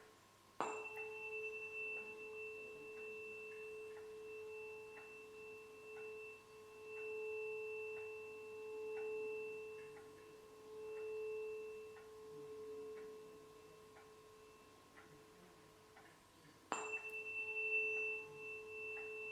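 Tuning fork struck, then ringing with a steady pure tone that slowly swells and fades in loudness, struck again near the end.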